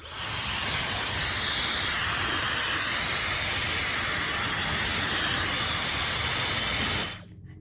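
Dyson Supersonic hair dryer switched on and blowing at full power: a loud, steady rush of air that starts abruptly and cuts off about seven seconds in.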